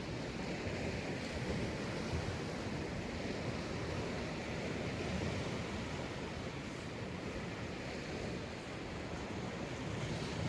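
Sea waves breaking and washing up a sandy beach in a steady, continuous surf, with low wind buffeting on the microphone.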